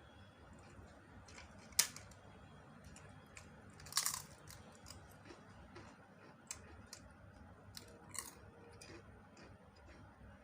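A person eating a meal of rice and curry, close-miked: chewing with scattered small mouth clicks and crunches. A sharp click stands out about two seconds in, and a short cluster of louder crunches about four seconds in.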